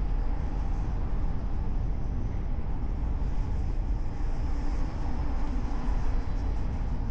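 Steady road noise of a car driving through city traffic, picked up by a hood-mounted camera: a deep, even rumble of tyres and passing air with no distinct events.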